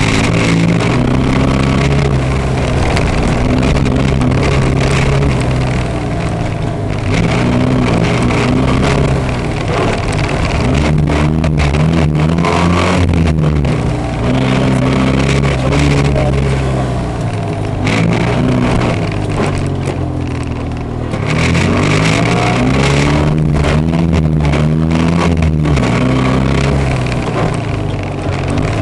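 Rally car engine heard from inside the cabin during a timed run, revving up and dropping back again and again as the driver accelerates, shifts and lifts off for the tyre chicanes, with steady tyre and road noise underneath.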